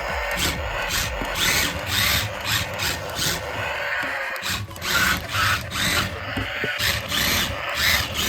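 Small electric motor of a toy RC drift car whirring in repeated short bursts, its pitch rising and falling as the throttle is worked.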